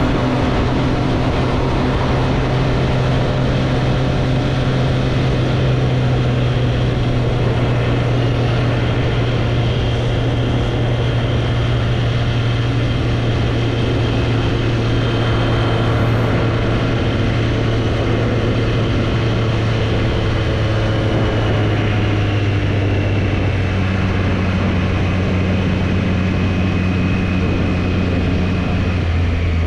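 2024 Triumph Street Triple's inline-three engine running at a steady pitch under wind noise, its note dropping gradually lower in the last third as the bike eases off.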